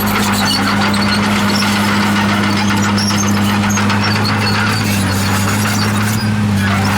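Komatsu D51PX bulldozer's diesel engine running steadily under work, with scattered high squeaks and squeals from the machine's metal parts.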